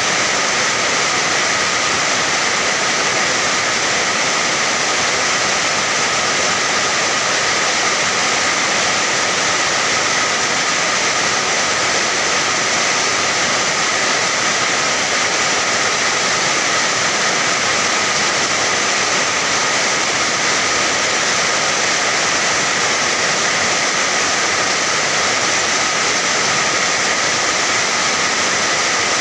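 Steady rain falling, an even, unbroken hiss with no separate drops standing out.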